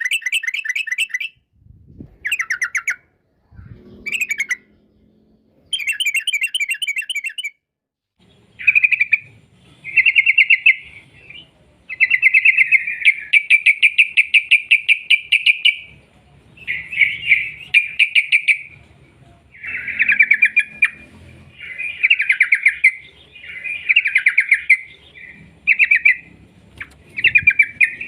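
Yellow-vented bulbul (trucukan) singing in fast chattering trills, the 'ropel' run of rapid repeated notes. Phrases of one to two seconds come in quick succession, with one long unbroken run of about four seconds in the middle.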